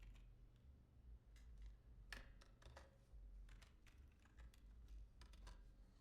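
Faint, irregular clicking and typing on a computer keyboard and mouse while browsing, over a low steady hum.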